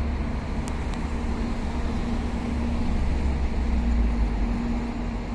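Shinkansen train moving slowly out of its depot: a low rumble with a steady hum, swelling to its loudest about four seconds in.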